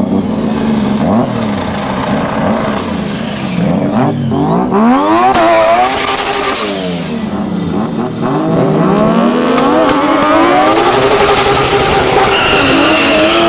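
Modified street-race car engines revving hard at the line, then launching and accelerating away. Their pitch climbs through each gear and drops at every shift.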